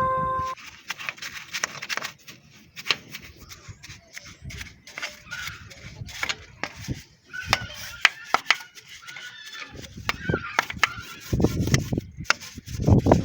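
Irregular sharp clicks and knocks, with short chirp-like calls from time to time and a few heavier thumps near the end. Music cuts off about half a second in.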